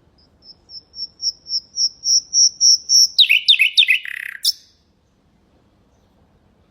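Common nightingale singing one phrase: about ten high, pure piping notes repeated some three times a second and growing steadily louder, then a rapid run of falling notes, a short buzzy rattle and one sharp closing note.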